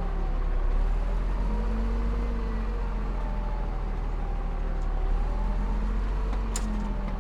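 Heavy diesel engine of an earthmoving machine running steadily, its pitch rising and falling slightly. A single sharp click comes near the end.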